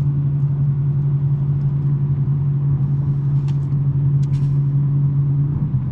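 BMW M3 G80's twin-turbo inline-six, through a non-resonated J-pipe exhaust, holding a steady low drone at an even cruise. The drone loosens and shifts just before the end, as the throttle or revs change.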